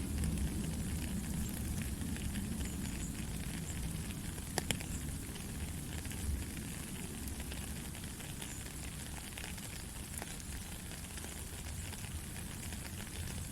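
Steady rain falling: an even hiss over a deep low rumble, with now and then a sharp drop click, the clearest a little before halfway.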